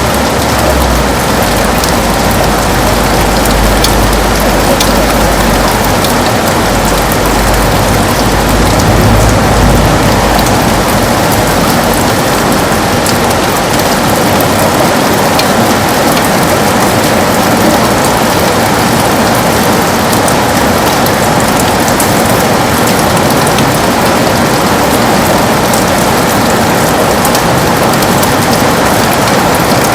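Heavy rain beating on a window glass: a dense, steady hiss of rain full of fine individual drop ticks. A low rumble underneath dies away about a third of the way through.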